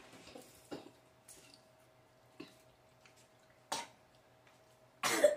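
Faint eating sounds of people eating tacos: a few isolated crunches and clicks, with a louder short sound near the end, over a faint steady hum.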